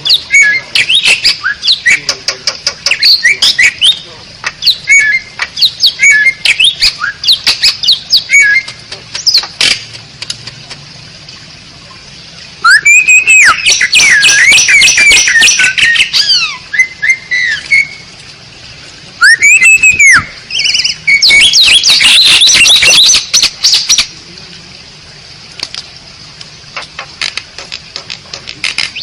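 Asian pied starling (jalak suren) singing. It starts with a quick run of short whistles and chattering notes. Two loud stretches of harsh squawks and rising-and-falling whistles follow in the middle, and it thins to scattered notes near the end.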